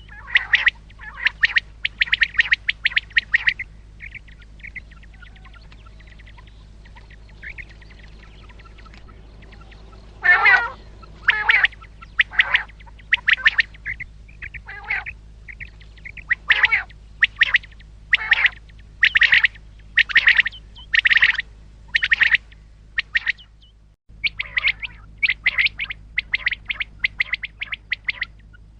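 Common quail calling: short, sharp, high calls in quick strings, a lull of several seconds, then calls at about one a second, over a steady low hum.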